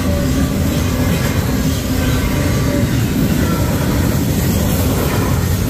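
Autorack cars of a Union Pacific manifest freight train rolling past at a grade crossing: a steady, loud rumble of steel wheels on the rails.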